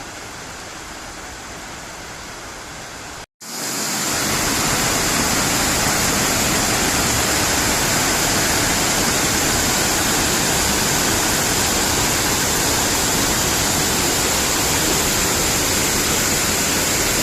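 Steady rush of the Nabegataki waterfall's falling water. About three seconds in, the sound breaks off for an instant and comes back much louder, with a brighter hiss.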